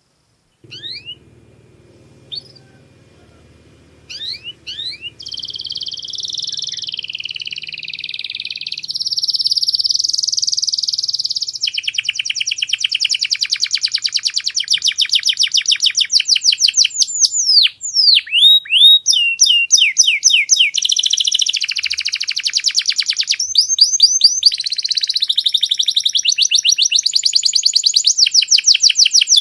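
Domestic canary singing: a few separate sweeping chirps, then from about four seconds in a loud, unbroken song of fast trills and rolls, each phrase of rapidly repeated notes shifting to a new pitch every second or two.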